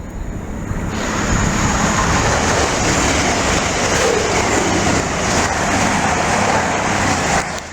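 A train passing close by at speed: loud, steady noise of wheels and air that builds about a second in and cuts off sharply near the end as the train clears.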